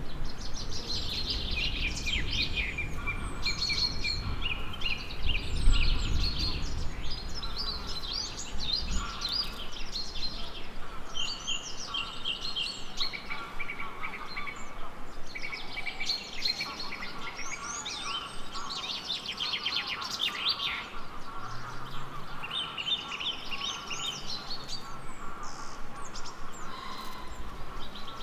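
A chorus of several songbirds, with overlapping chirps, trills and whistles throughout. A low rumble underlies the first several seconds.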